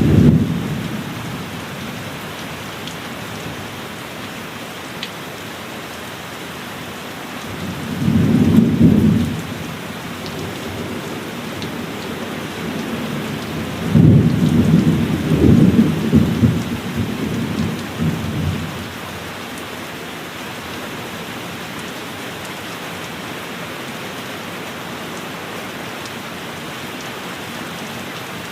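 Steady heavy rain with low thunder rumbling in three rolls: one fading in the first second, one about eight seconds in, and a longer, rolling one starting about fourteen seconds in and lasting some four seconds.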